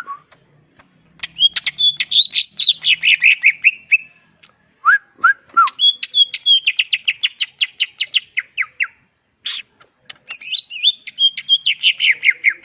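Leafbird (cucak ijo) singing in three long bursts of fast, varied whistled and chattering notes. Three lower slurred whistles come between the first two bursts.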